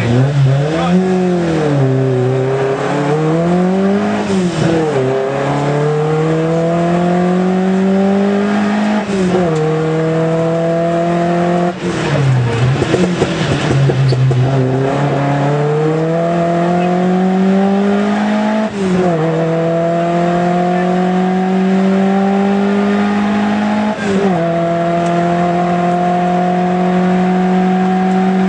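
Rally car engine heard from inside the cabin, revs swinging up and down at first, then accelerating hard through the gears: each gear's pitch climbs steadily and falls sharply at the upshift, several times over.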